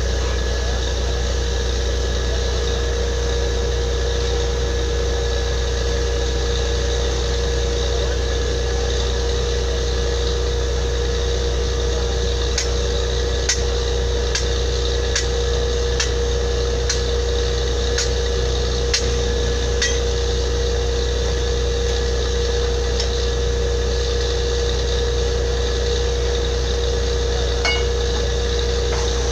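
Borewell drilling rig running steadily with a deep, even drone and a constant hum. About midway, a run of light metallic clinks comes roughly once a second for several seconds.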